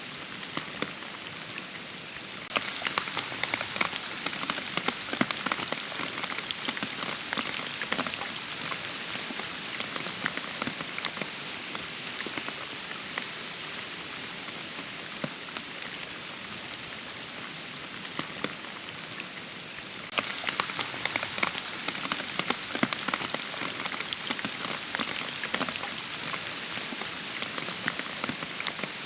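Steady rain, with many separate drop hits heard through the hiss. It gets suddenly heavier about two and a half seconds in and again about twenty seconds in, easing off slowly after each rise.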